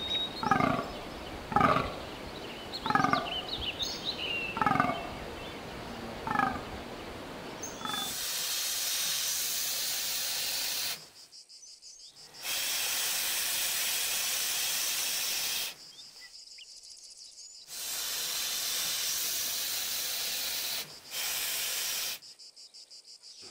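Fallow deer buck groaning: about five short, deep calls with a falling pitch, a second or so apart and growing fainter. Then, from about eight seconds in, an iguana hissing in four long hisses with short breaks between them.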